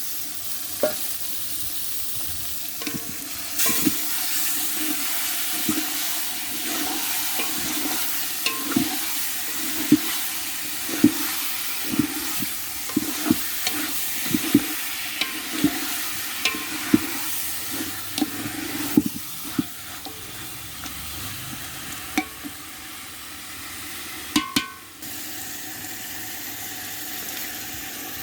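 Chicken curry frying and sizzling in a pan, with a spoon stirring it and knocking and scraping against the pan every second or so. Near the end the knocks stop, leaving a steady hiss.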